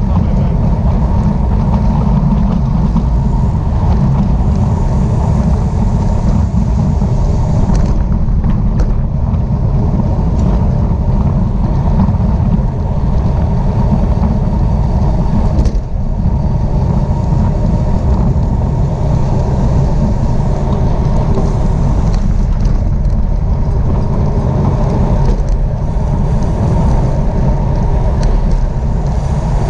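Steady wind rushing over the microphone of a camera moving at racing speed in a bicycle race, a loud, constant low rumble.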